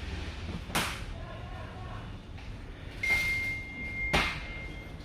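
Two sharp knocks, one about a second in and one near the end, over a low steady hum, with a steady high-pitched beep starting about three seconds in.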